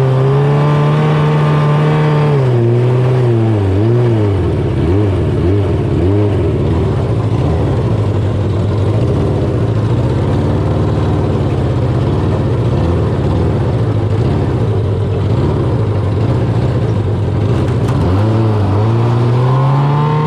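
600cc sportbike engine in a small jet-drive john boat running loud with no proper exhaust fitted, holding steady at first, then revving up and down repeatedly from about three seconds in before settling near the end.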